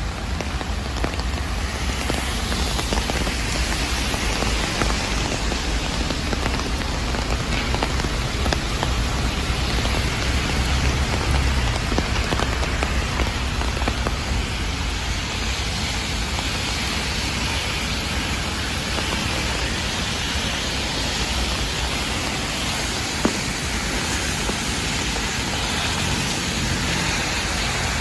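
Heavy rain falling steadily on a wet city street and pavement, a continuous hiss of rain. One brief sharp tick stands out about 23 seconds in.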